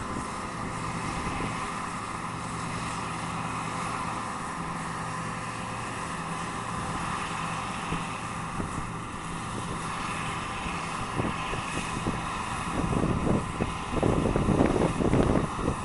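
Harvest machinery's engine running steadily at an even pitch. Wind buffets the microphone in gusts during the last few seconds.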